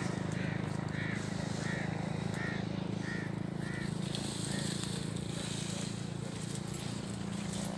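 A bird calling over and over, a short rising-and-falling note repeated about every two-thirds of a second, fading out about halfway through. A steady low hum runs underneath.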